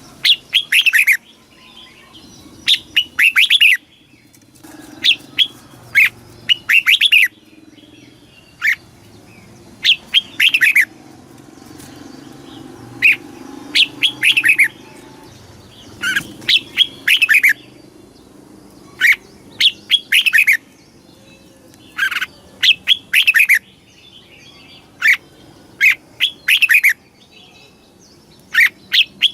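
Red-whiskered bulbul singing: short, loud phrases of quick falling notes, repeated every second or two.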